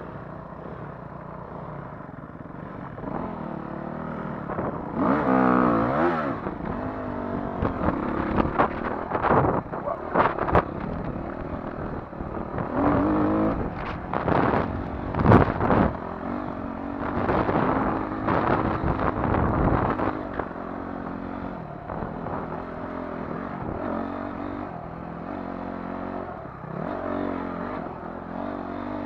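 Dirt bike engine on a motocross track, revving hard and easing off again and again as the rider goes round, with knocks in between.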